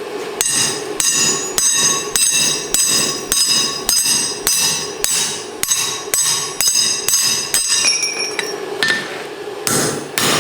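Steel hammer blows on a drift, driving it through the punched eye of a tong blank over the anvil: steady strikes about two a second, each with a bright metallic ring. The blows stop briefly near the end, then start again.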